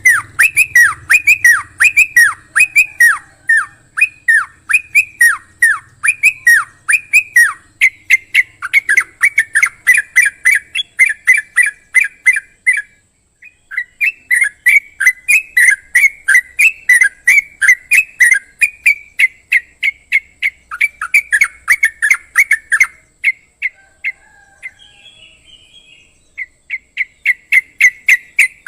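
Yellow-vented bulbul (trucukan) calling loudly in a fast run of short, downward-sweeping whistled notes, about three a second. The run breaks off twice, and a few softer calls come in the longer pause.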